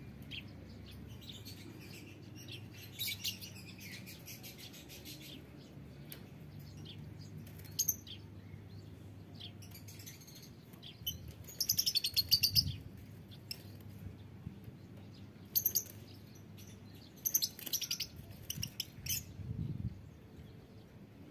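Lovebirds chirping and chattering in shrill, rapid bursts that come in clusters, loudest about halfway through and again in the last few seconds, over a faint low hum.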